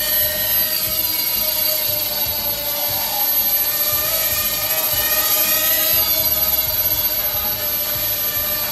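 Hubsan H107 X4 mini quadcopter's four small coreless motors and propellers whining in flight. The pitch drifts gently up and down as the throttle changes.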